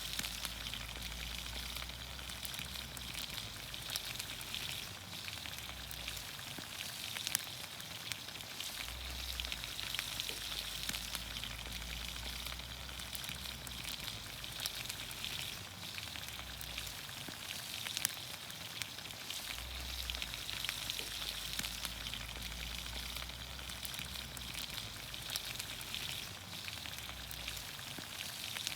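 Green beans, onions, carrots and potatoes sizzling in olive oil over a campfire: a steady high sizzle with scattered crackles and pops.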